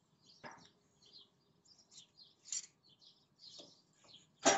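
Small birds chirping in quick, scattered calls, with a sharp knock about half a second in and a louder knock near the end.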